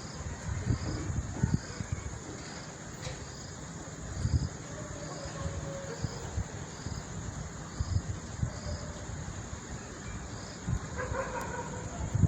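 Wind gusting against the microphone in uneven low rumbles, over a steady high insect drone with a regular chirp about twice a second. A faint animal call sounds near the end.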